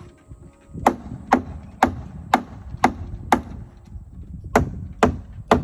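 Hammer striking nails into wooden framing: sharp, evenly spaced blows about two a second, six in a row, a short pause, then three more.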